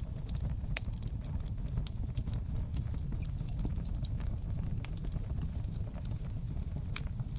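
Fireplace fire crackling: irregular sharp pops and snaps over a low, steady rumble of flames, with a louder pop about a second in and another near the end.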